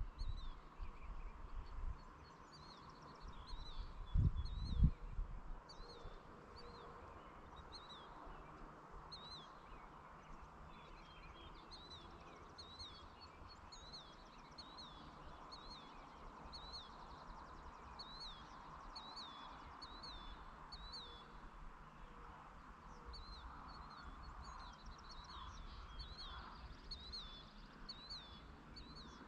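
Small birds chirping over and over in short, quick notes, against a faint steady outdoor background hum. A few low rumbles come in the first five seconds.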